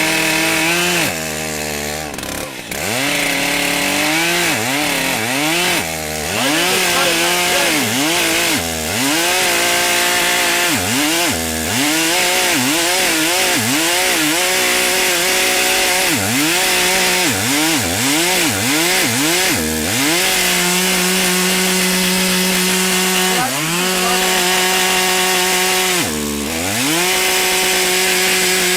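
Stihl MS880 two-stroke chainsaw cutting through a log round. Its engine pitch sags and recovers again and again as the chain bites, then runs steady at high speed for several seconds near the end, with one brief dip.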